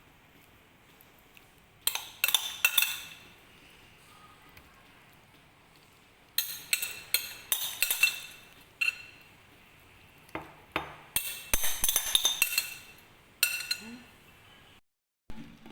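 Kitchenware clinking: clusters of sharp knocks with a short ringing tail, separated by quiet gaps, as utensils and dishes are handled during cooking.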